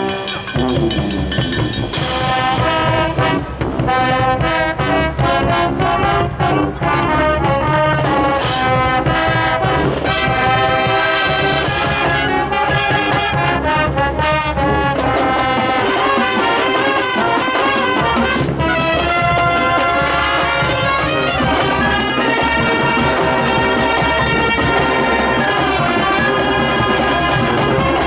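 High school marching band playing its field show: brass carries the music over the percussion, with a few bright crashing hits in the first half.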